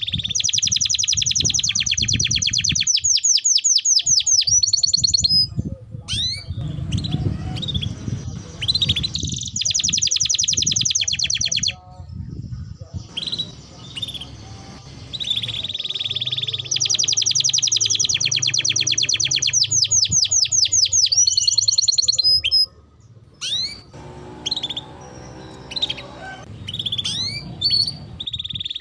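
Songbird song in long, very fast high-pitched trills lasting several seconds, alternating with stretches of separate chirps and whistled up-and-down glides, over a low rumble.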